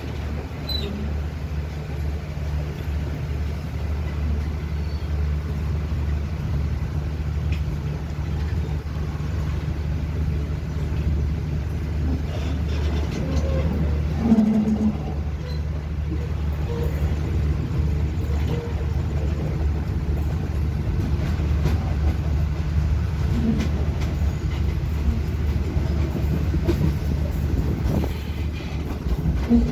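Passenger train heard from on board, a steady low drone running throughout, with a short louder tone about halfway through.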